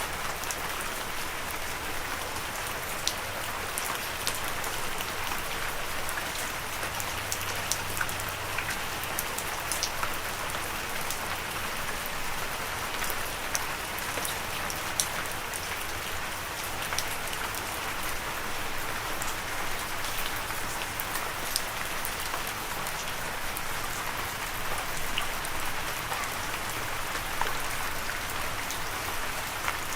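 Steady rain falling: an even hiss of rainfall with scattered sharper ticks of individual drops striking close by.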